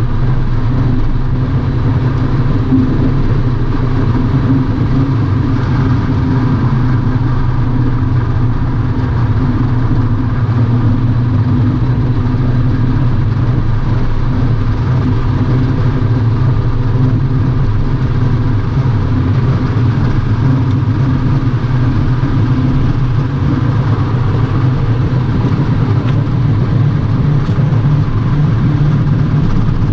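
Steady drone of a diesel car's engine and tyres at highway speed, heard from inside the cabin.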